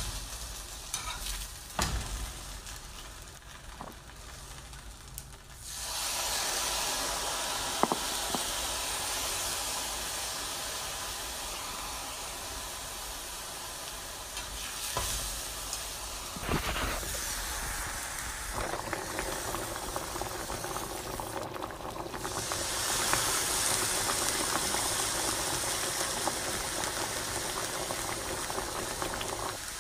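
Food sizzling as it fries in a hot pan. In the first few seconds a utensil knocks and scrapes as it is stirred. The sizzle then swells into a steady hiss, with an occasional knock of the utensil.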